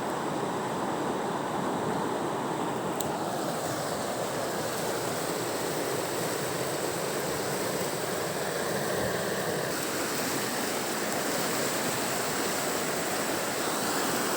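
Rushing mountain river: a steady, even roar of churning water over rocks.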